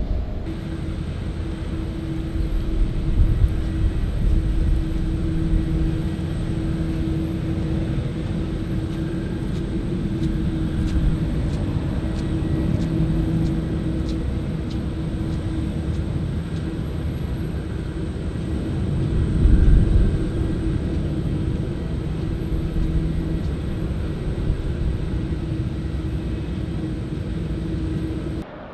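Jet airliner engines running with a steady, loud rumble and a constant hum, swelling slightly about two-thirds of the way through.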